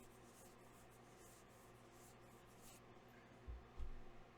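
Near silence: faint scratchy rustling over a steady low electrical hum, with two dull low thumps about three and a half seconds in.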